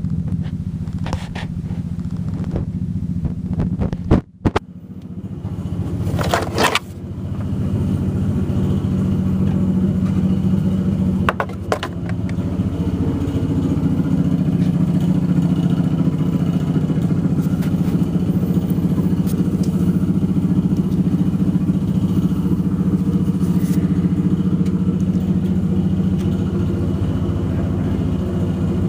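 Ford F-150's 5.4-litre V8 idling steadily, heard close up from the engine bay. The sound cuts out for a moment about four seconds in, and there are two brief sharp noises a few seconds later.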